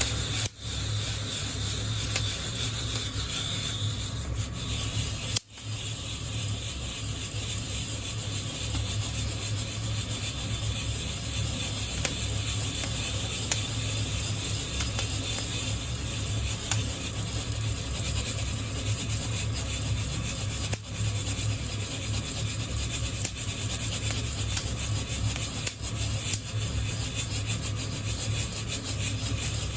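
Coffee beans rustling and scraping against the wire mesh of a hand-held roasting net as it is shaken continuously, over a steady low hum. It breaks off briefly about five seconds in.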